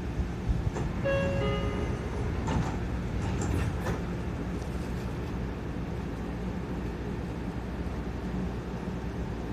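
Seibu 40000 series electric train running, heard from on board: a steady low rumble of wheels on rail, with a few clicks in the first few seconds. About a second in, a short electronic tone steps down in pitch once.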